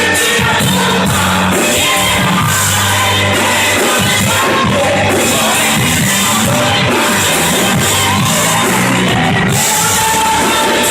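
Loud gospel band music with singing, and some shouting from the crowd.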